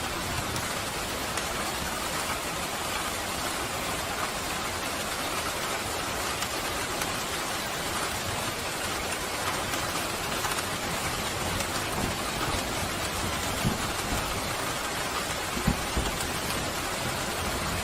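Steady rain falling, with a few brief low thumps in the second half.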